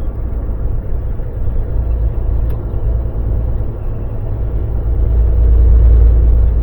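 Volvo VNL semi truck's diesel engine running under way with road noise, a steady low rumble that grows louder about five seconds in.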